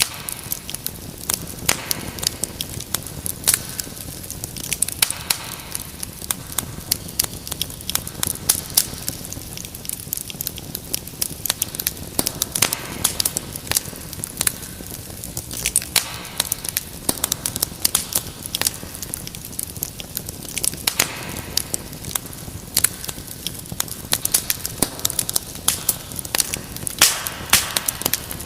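Wood fire in a fireplace crackling: dense, irregular snaps and pops over a steady soft hiss of burning.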